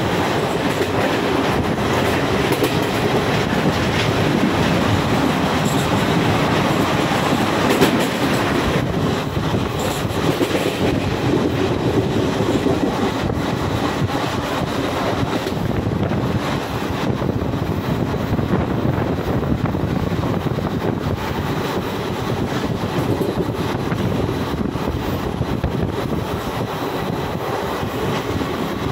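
Indian Railways passenger train running at speed, heard at a carriage window: a steady rush of wheels on the rails with faint clicking from the rail joints. It is a little louder in the first half and eases off slightly later on.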